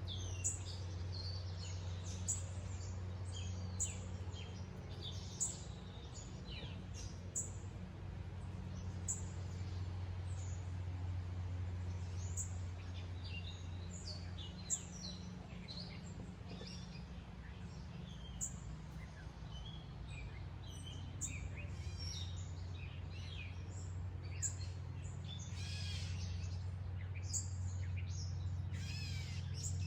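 Wild songbirds chirping, with a short chirp repeated every second or two and a warbling song late on, over a steady low hum.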